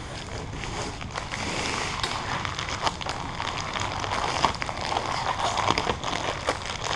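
Masking (application tape) being peeled back on itself off a freshly applied vinyl wrap stripe, a continuous ripping noise peppered with small clicks.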